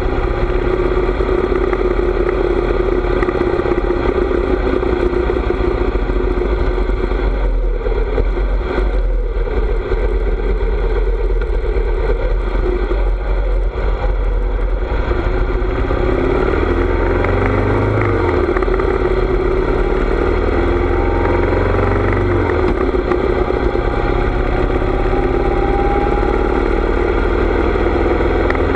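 Harley-Davidson V-twin motorcycle engine running while riding, with a strong low rumble of wind on the microphone. The engine pitch rises and falls several times in the second half as the bike changes speed.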